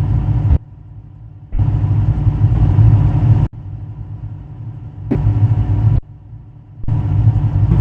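SUV engine running hard, in loud stretches that cut in and out abruptly, with a quieter engine sound between them.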